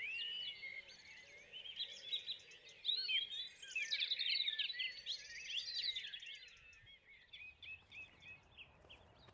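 Several songbirds singing at once: many overlapping chirps and whistles, densest in the middle and thinning out near the end.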